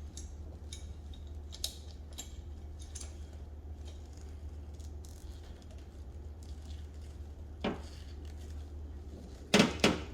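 Small metal hand tools and hose fittings being handled: light clinks and taps, then a few louder knocks near the end, over a steady low hum.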